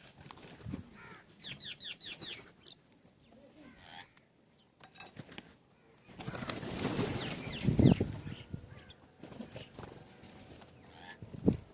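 Birds at a feeder: a quick run of short chirps about a second and a half in, then a burst of wing flapping and rustling with a loud thud a little past the middle, and another sharp thud near the end.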